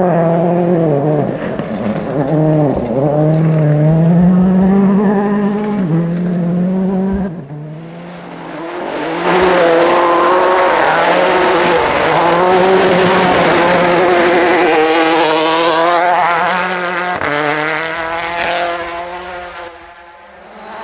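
Rally car engines driven hard on a forest stage, revving up and dropping back again and again through gear changes. A first car's sound falls away about seven seconds in, then another loud pass starts at about nine seconds and fades away near the end.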